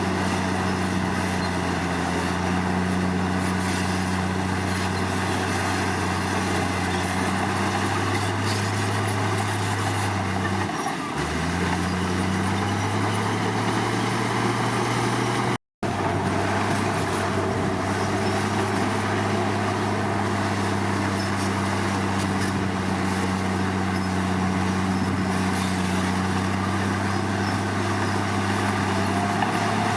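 Komatsu D53 crawler bulldozer's diesel engine running steadily. About a third of the way through its pitch drops sharply and climbs back over a couple of seconds, and near the middle the sound cuts out for an instant.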